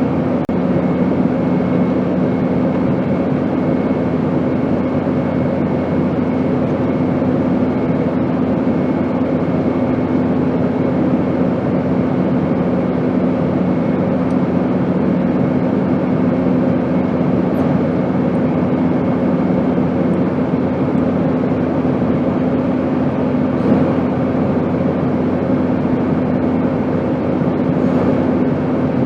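Airplane noise: a steady, even hiss with a constant low drone that holds the same level throughout.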